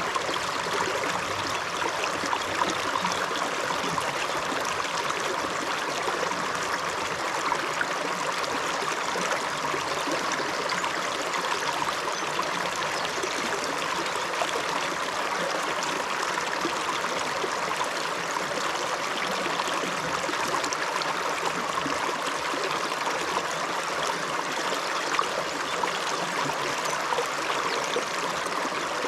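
A small river running over rocks, a steady rush of flowing water with gurgling and trickling.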